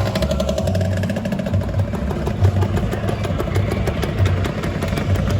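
Two-stroke Lambretta scooter engines running, mostly at idle. The engine note falls early on and rises again near the end.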